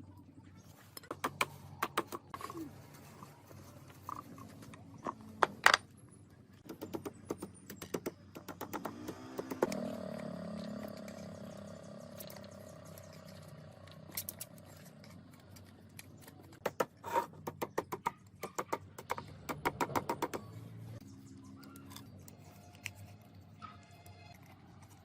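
Irregular clicks and knocks of hand work in a workshop, with a whirring tone that rises about ten seconds in and holds for a few seconds.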